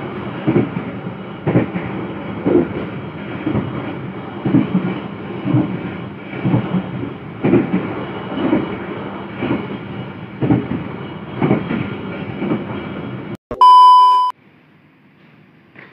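Train wheels clacking over rail joints under a steady running rumble, a clack roughly every second. Near the end the sound cuts off abruptly and a loud electronic beep sounds for under a second.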